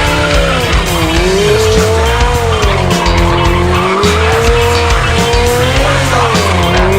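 Motorcycle engine held at high revs, its pitch swinging slowly up and down with the throttle, over rock background music.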